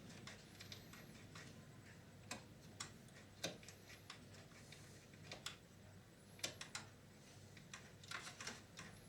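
Scattered light clicks and taps of small parts and tools being handled on an opened VCR's tape transport mechanism, irregular and quiet, with a couple of sharper taps about three and a half and six and a half seconds in.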